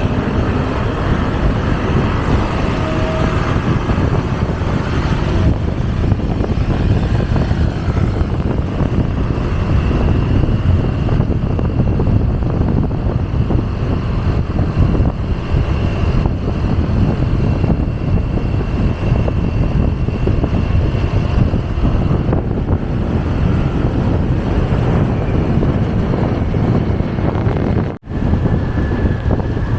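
Wind rushing over the microphone of a moving motorcycle, with road and traffic noise underneath. The sound drops out for a moment near the end.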